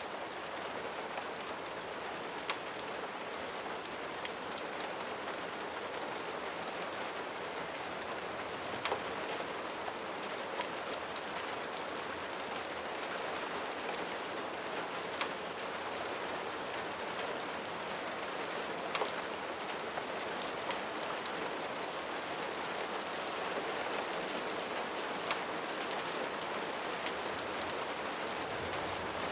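Steady rain, an even hiss of rain falling on surfaces, with scattered sharp ticks every few seconds.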